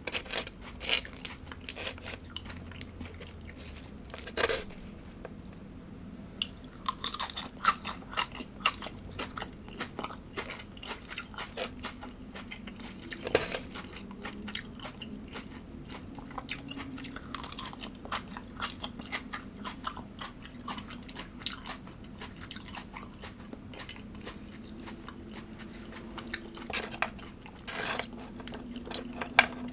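A person chewing and crunching food close to the microphone: a dense run of small crisp crackles with a few sharper clicks now and then.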